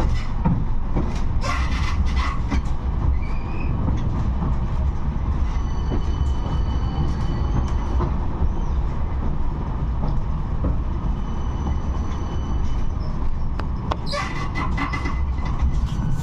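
71-628-02 tram running on the rails with a steady low rumble. A thin, high wheel squeal sets in about a third of the way through and fades after about 13 seconds, with clusters of clicks near the start and near the end.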